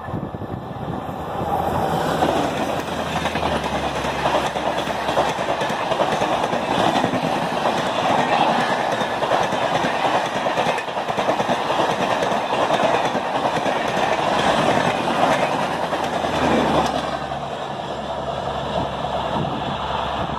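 An Indian Railways express train of LHB coaches passing at high speed. The wheels on the rails make a loud, steady rush with clickety-clack over the rail joints. The sound swells about two seconds in and falls away after about seventeen seconds as the train goes by.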